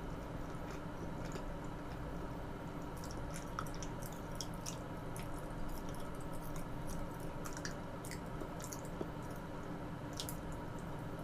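Close-miked eating mouth sounds: soft wet chewing with small, irregular sticky clicks and smacks over a steady faint hum.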